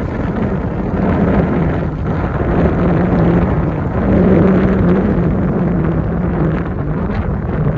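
Toyota Land Cruiser 100 series driving on a dirt trail: its engine hums steadily, the pitch wavering a little, under a rush of wind on the microphone and tyre noise.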